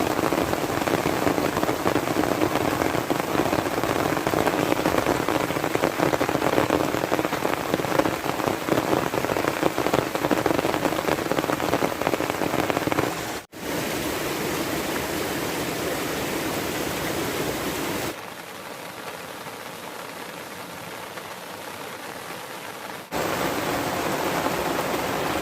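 Heavy rain falling steadily in a dense patter. It is spliced from several takes: it cuts out sharply about 13 seconds in, then goes quieter and thinner for about five seconds before the full downpour returns.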